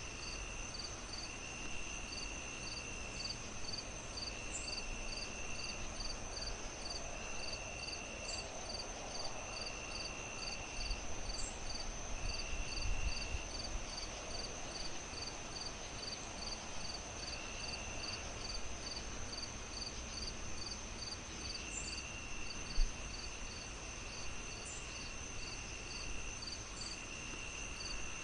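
Crickets chirping steadily, about two chirps a second, over the low crackle of a wood fire, with one sharp pop from the fire about 23 seconds in.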